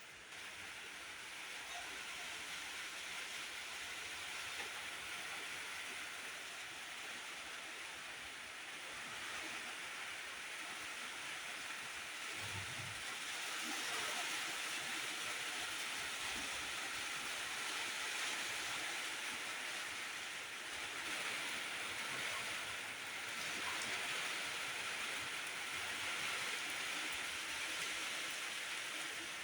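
Steady rain falling, an even hiss that grows somewhat louder about halfway through.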